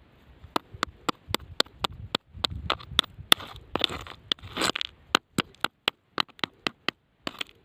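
A rapid series of sharp clicks or taps, about three to four a second, with scraping and crunching noise between them around the middle.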